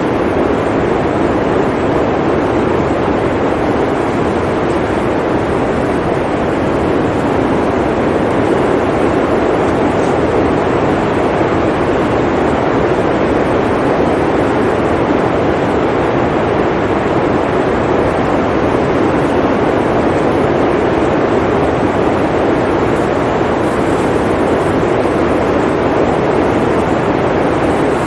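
Blizzard wind blowing in a steady, dense rush of noise, without distinct gusts or breaks.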